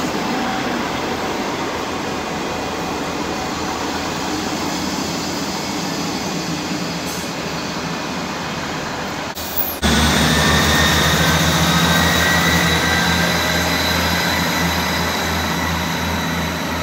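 ScotRail Class 158 diesel multiple unit moving along the platform with a steady rumble of wheels on rail. About ten seconds in the sound turns suddenly louder, with a low engine throb and steady high whines.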